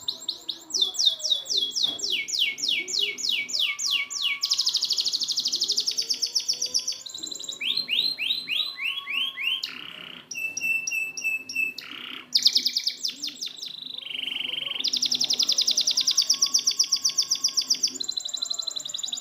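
Domestic canary singing a long, continuous song of rapid trills: phrases of quickly repeated down-sweeping notes and fast buzzing rolls, each phrase switching to a new one every second or two.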